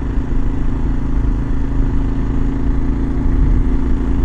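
Kawasaki KLR 650's single-cylinder engine running at a steady cruise while the motorcycle is ridden, a constant low engine note with no change in speed.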